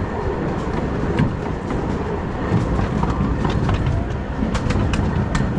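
Ride-along sound of a small-scale steam train rolling along its track: a steady low rumble, with sharp clicks of the wheels over the rail joints that come more often near the end.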